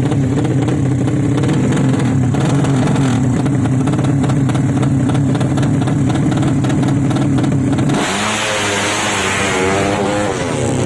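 Drag-racing motorcycle engines held at steady high revs. About eight seconds in the sound changes abruptly to engines accelerating, with their pitch sweeping up and down.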